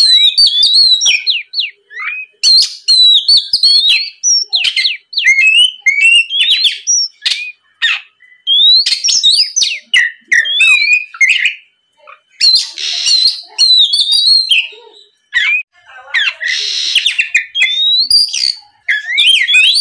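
Oriental magpie-robin singing continuously: a fast, loud run of whistled notes and quick sweeping phrases. A harsh, raspy note cuts in twice in the second half.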